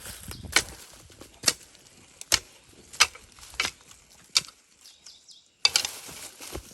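A hoe chopping into soil in six strokes at a steady pace, each a sharp thud, followed by a brief pause and a second of scraping noise near the end.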